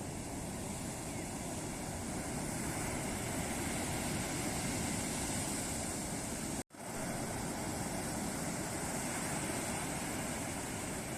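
Sea surf washing onto a beach: a steady rush of breaking waves, interrupted by a split-second gap of silence about two-thirds of the way through.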